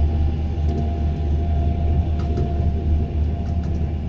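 Passenger train running at speed, heard from inside the carriage: a steady low rumble with a faint steady whine above it, and a few light clicks in the second half.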